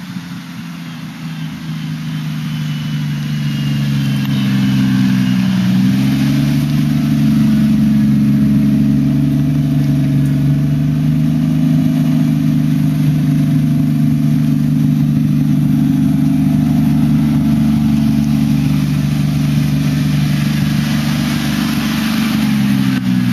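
Swapped 1JZ-GTE straight-six with a single GT35R turbo and Greddy titanium exhaust, running at a steady engine speed. It grows louder over the first few seconds, and its pitch dips and then climbs again near the end.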